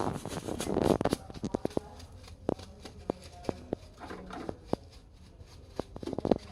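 Hand-cleaning of a refrigerator's rear condenser: a dense rustling and scraping in the first second, then scattered sharp clicks and taps.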